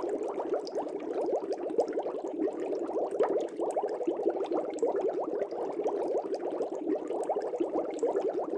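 Air bubbles streaming up through a fish tank's water: a steady, dense bubbling made of many quick little rising blips.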